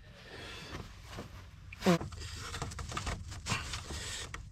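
Hands working on engine-bay parts: scattered clicks and scrapes of plastic and metal being handled, with a short grunt about two seconds in.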